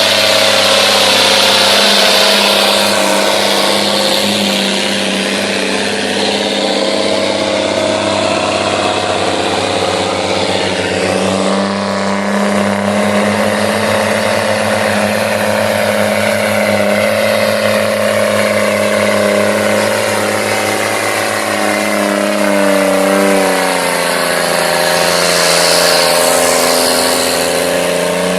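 John Deere 2020 tractor engine running steadily, its pitch rising and falling a few times as the engine speed changes.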